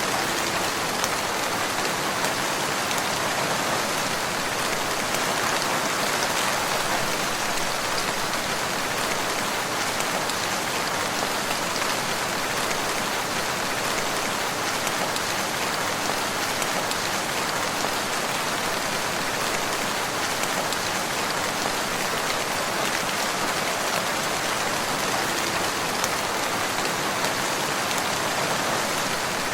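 Steady rain falling on a surface, an even hiss of many drops with the odd louder single drop standing out.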